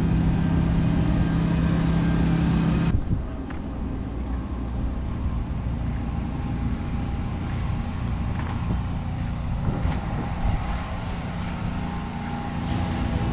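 Hurricane-force wind rushing and buffeting the microphone, with a steady low hum over it for the first three seconds. The sound then changes abruptly to quieter wind noise with a few faint knocks.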